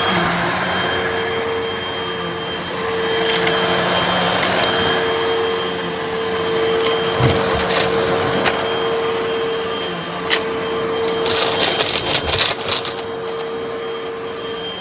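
Hoover vacuum cleaner running with a steady motor hum while it sucks up small crunchy debris, which crackles and rattles in scattered bursts, thickest in a dense run of crackling near the end.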